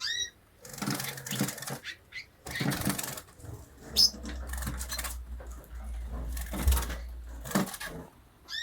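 Caged canaries fluttering and hopping about, in repeated short bursts of rustling, with a few short rising chirps near the start and end and one sharp high chirp about 4 seconds in. A low rumble runs through the middle.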